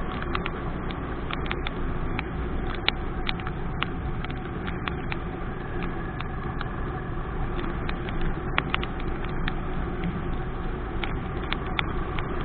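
Motorcycle riding in the rain: a steady low rumble of engine and road noise, broken by irregular sharp ticks of raindrops striking the camera.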